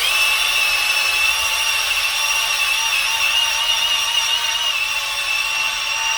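Electric drill spinning a cylinder hone in an engine block bore, honing the cylinder wall: a steady high whine over a scraping hiss.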